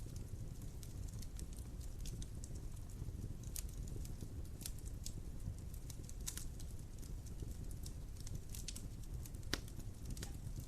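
Wood fire in a fireplace crackling: a steady low rumble of flames with scattered sharp pops, the loudest about nine and a half seconds in.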